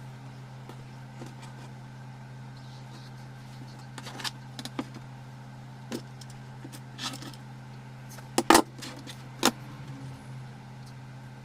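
A handful of sharp clicks and rustles, like tools and fabric being handled at a sewing table, over a steady low hum; the loudest is a quick double click about eight and a half seconds in. The sewing machine is not stitching.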